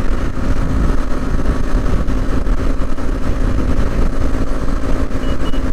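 KTM Duke 125's single-cylinder engine running steadily at highway cruising speed, under a heavy, steady low rumble of wind on the helmet camera's microphone.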